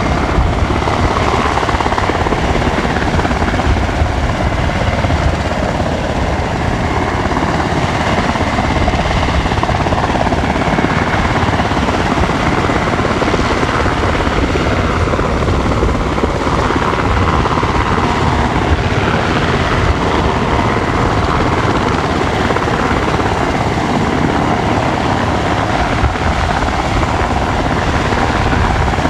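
SH-60K Seahawk helicopter running steadily and loudly: continuous rotor noise with a faint high turbine whine, unbroken throughout.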